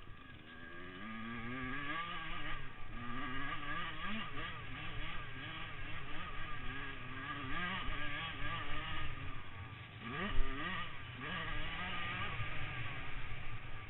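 Several motocross bike engines revving up and down, their pitches rising and falling and overlapping. About ten seconds in, one engine revs sharply upward, the loudest moment.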